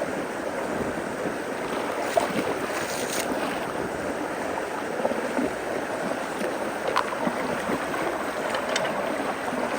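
Steady rush of creek water pouring through a road culvert that is being cleared of leaves, with a few small clicks and splashes.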